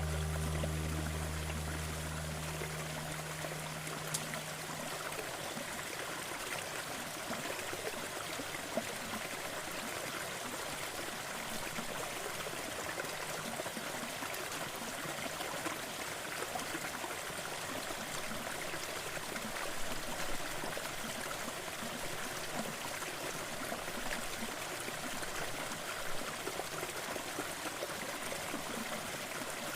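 Steady rush and trickle of a waterfall, even and unbroken. The last low guitar note dies away in the first few seconds.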